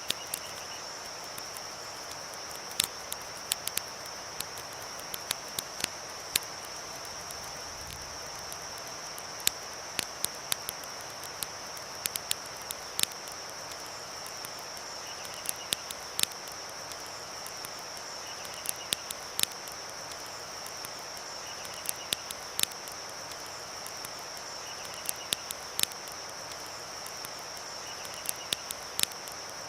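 Layered nature ambience: a steady high insect drone over the even rushing hiss of a river, broken by sharp, irregular pops and snaps of a crackling campfire. In the second half, faint short chirps come every couple of seconds.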